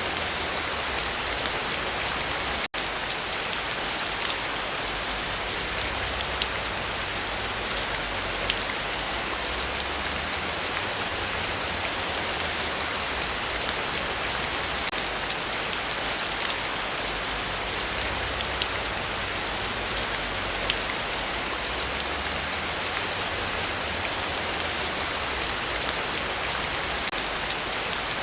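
Heavy rain falling steadily, a dense even hiss with scattered drop ticks. The sound cuts out for an instant about three seconds in.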